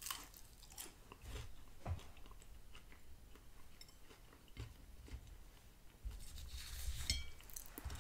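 A person chewing a bite of McDonald's Chicken McNugget close to the microphone, with soft crunches and small clicks, which become busier near the end.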